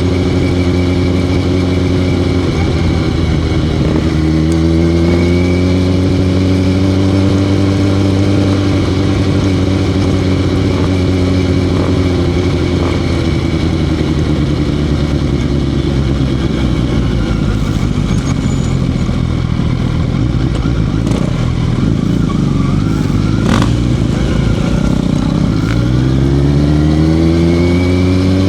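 Motorcycle engine running while riding, its pitch climbing about four seconds in, easing slowly down over the following stretch, and climbing again near the end.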